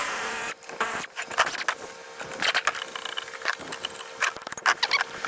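Metal tools clicking and clinking irregularly as the nut is wound down a long bolt on a homemade socket-and-bolt extractor to press out a differential bushing. A faint steady hum sits underneath.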